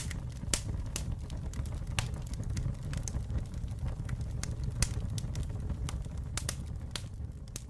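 Campfire burning: irregular sharp crackles and pops, several a second, over a steady low rumble of the flames.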